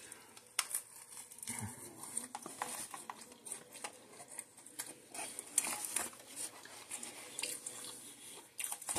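A person biting into and chewing a McDonald's Chicken Big Mac, with faint crisp crackles from its tempura-breaded chicken patties and the bun and shredded lettuce. The crackles come as scattered, irregular clicks.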